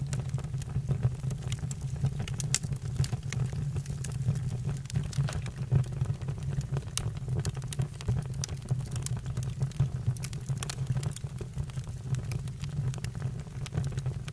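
Campfire burning: frequent sharp crackles and pops over a steady low rumble.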